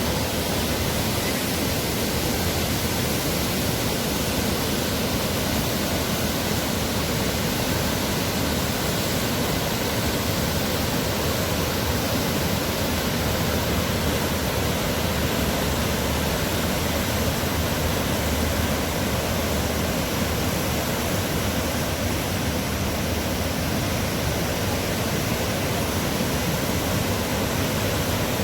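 Steady, unbroken rush of the Dubai Water Canal's artificial waterfall, water pouring into the canal.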